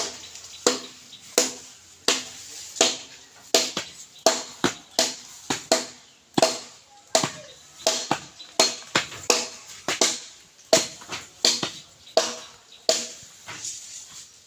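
Hammering during construction: a steady run of sharp hammer blows, roughly one to two a second, each with a short ringing tone.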